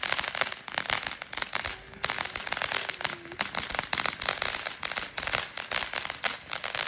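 Ground fountain firework burning: a steady hissing spray of sparks with a dense, continuous crackle.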